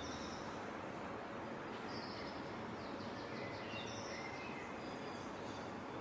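Small birds chirping in short high calls, with one quick trilled run about halfway through, over a steady background hum of a city street.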